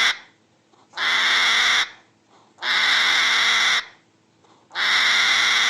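Hedgehog huffing: long noisy hissing huffs, each about a second long and about two seconds apart.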